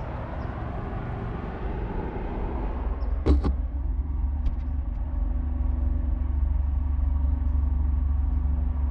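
Motor vehicle running: a wide rushing noise for the first few seconds, a single knock a little over three seconds in, then a steady low engine hum.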